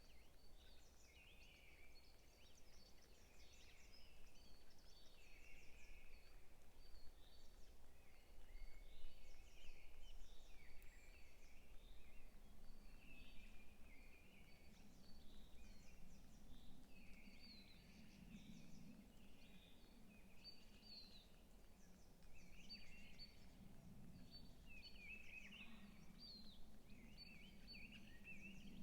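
Several songbirds chirping and twittering in a forest, many quick overlapping calls, faint, over a steady low hum. A low rumble comes in partway through.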